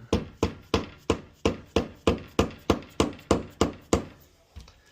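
Hammer striking a wood chisel, cutting out a mortise in a wooden door for a deadbolt: about a dozen sharp, even blows, roughly three a second, stopping about four seconds in.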